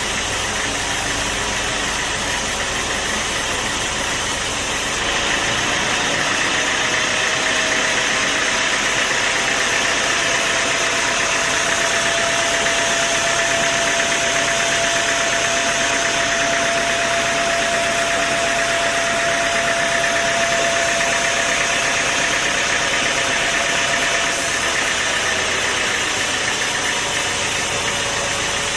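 Sawmill machinery running with a steady mechanical noise. About five seconds in it grows louder and a steady whine comes in, as if a saw takes up a cut, and it eases back near the end.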